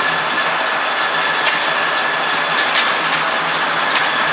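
Sawmill machinery running: a steady mechanical noise with a constant high whine and scattered sharp clicks.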